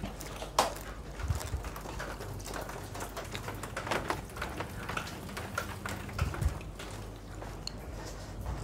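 A person chewing a crisp lettuce-wrapped bite of food: a sharp crunch about half a second in, then irregular crackly chewing, over a light patter of rain.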